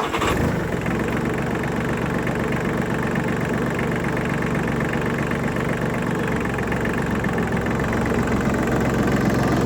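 New Holland Simba 30 mini tractor's three-cylinder diesel engine idling steadily.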